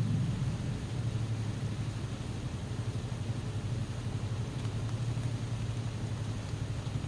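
Wind rumbling low, in gusts, over a steady hiss of rain.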